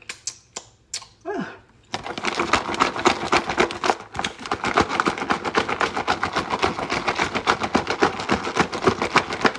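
Close-miked chewing of crunchy raw salad vegetables, a fast, dense crunching that starts about two seconds in after a few soft clicks.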